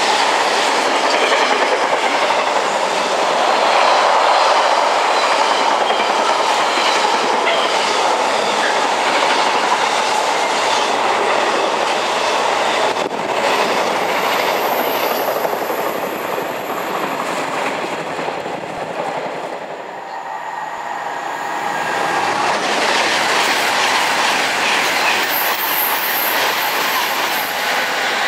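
Container freight train passing close by, a loud steady rush of wheels and wagons clicking over the rail joints. The noise dips about twenty seconds in, then builds again as another train comes near.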